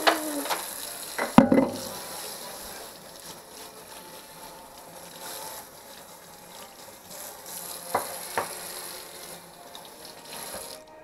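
Hot oil sizzling steadily as bananas fry in a pan, with a few knocks, the loudest about a second and a half in.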